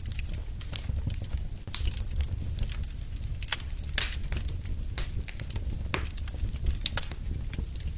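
Wood fire in a fireplace crackling, with irregular sharp pops and snaps over a steady low rumble of the burning; the loudest pop comes about halfway through.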